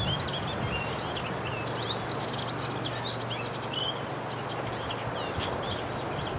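Many small birds chirping and twittering in quick short calls, over a steady low hum.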